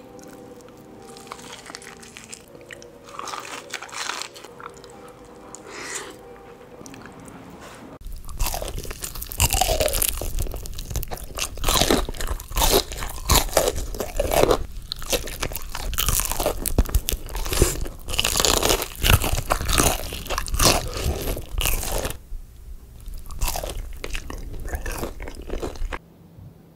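Close-miked eating of crunchy fried food from Wingstop: repeated crisp crunching bites and chewing. It is softer for the first third, loud and dense through the middle, then drops back near the end, with sudden changes in level where one clip gives way to another.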